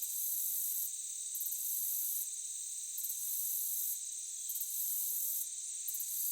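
Chorus of crickets or similar insects. A steady high-pitched drone runs under a still higher pulsing chirp that comes and goes about every second and a half.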